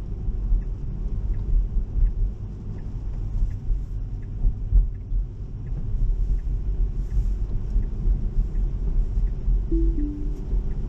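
In-cabin road and tyre rumble of a Tesla driving on wet roads, with a light ticking about every 0.7 s from the turn-signal indicator. Near the end there is a short two-note falling chime.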